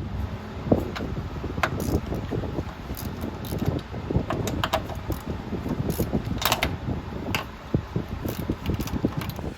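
Hand tools clinking and rattling against metal, with many irregular sharp clicks over a steady rustle.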